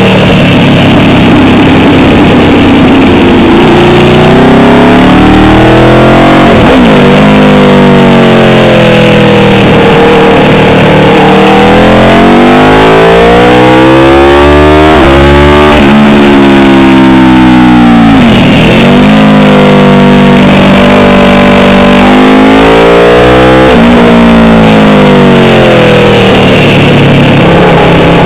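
Aprilia RSV4's V4 engine heard onboard at track pace, its pitch repeatedly climbing under acceleration and falling away into corners, with sudden drops at gear changes, over a steady rush of wind noise.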